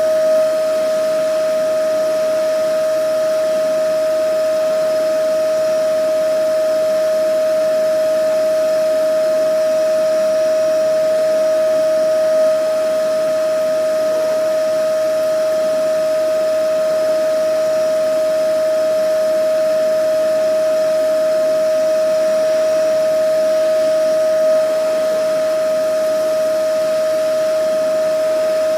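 Vacuum cleaner running steadily: a constant motor whine over rushing air noise, with a slight swell in level about every twelve seconds.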